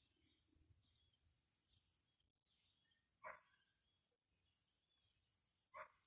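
Faint backyard birdsong: thin, high chirps from small birds, scattered throughout. Two brief, louder sounds stand out, one about halfway through and one near the end.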